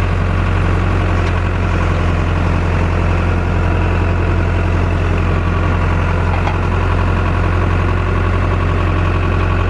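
Tractor engine running steadily at idle, a loud, even hum.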